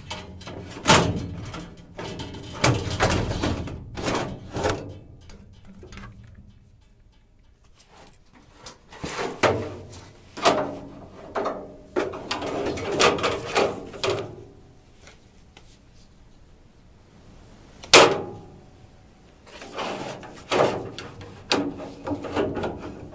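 Clunks, knocks and scraping of a furnace filter being handled and pushed back into its slot in the furnace. There are two short pauses, and one sharp knock about three-quarters of the way through is louder than the rest.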